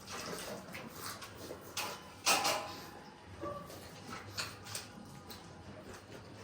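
Eating sounds: chewing and gnawing on pork feet, with scattered small clicks and smacks and a louder brief clatter about two seconds in.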